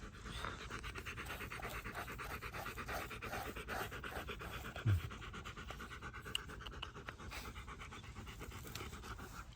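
A dog panting rapidly and steadily, with a brief low thump about five seconds in.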